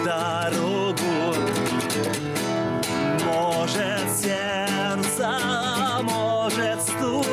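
Yamaha CGX102 nylon-string guitar strummed in a steady accompaniment, with a voice singing held, wavering notes over it.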